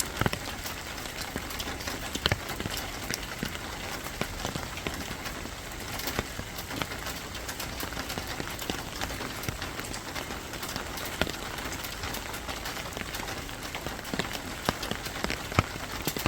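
Steady rain falling, with a constant hiss and many sharp, scattered drop ticks.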